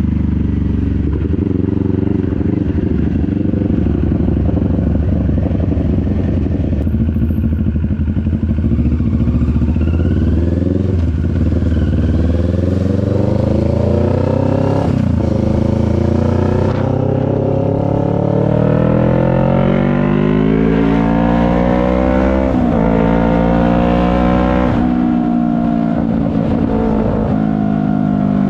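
CFMoto 400NK motorcycle's parallel-twin engine, heard from the rider's helmet: running steadily at first, then accelerating through the gears, its pitch rising in several runs with brief dips at each gear change, and easing off near the end.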